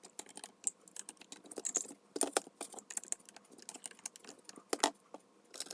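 Irregular light metallic clicks and taps as the small cast-iron vise and its parts are handled and worked on.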